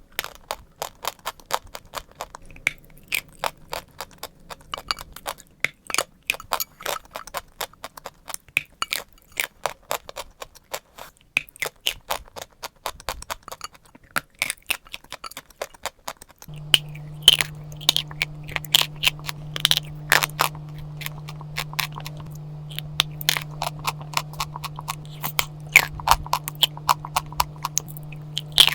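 Chalk being bitten and chewed close to the microphone: a rapid run of crisp crunches, several a second. Past the halfway mark a steady low hum starts underneath.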